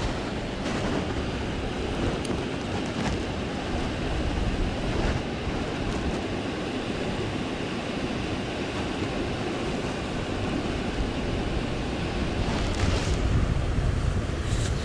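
Small mountain creek rushing steadily through rapids below a head-gate dam: an even, continuous rush of water.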